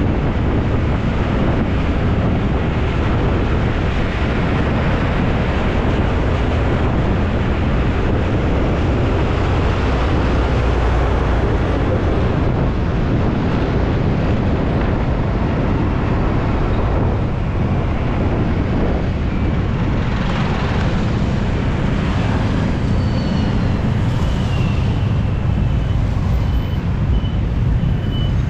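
Steady wind rush on the microphone over the running engine and road noise of a carburetted Honda Beat scooter being ridden. Near the end a repeating high-pitched beep joins in.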